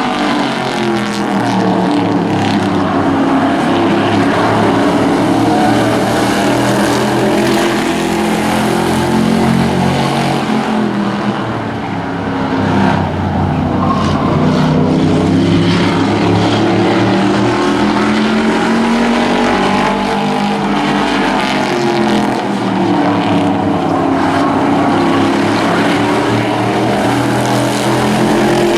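A pack of hobby-class race trucks running laps together, several engines revving up and easing off in pitch as they go round the oval. The sound dips briefly about midway, then swells again.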